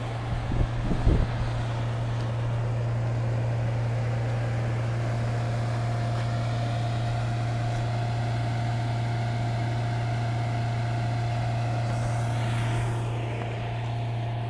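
Alfa Romeo 159 diesel engine running steadily during a forced DPF regeneration, with a steady whine joining in about five seconds in. A few low thumps come about a second in.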